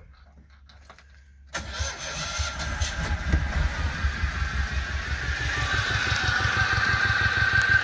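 Volvo Penta MD2B two-cylinder marine diesel starting about a second and a half in, then running with a rapid, even low pulsing that grows louder over the first second or two and settles. It is running on antifreeze drawn through its raw-water intake for winterizing.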